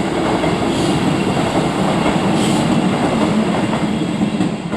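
Class 158 diesel multiple unit passing close by at speed: its engine and wheels on the rails make a steady loud rumble, which begins to fade near the end.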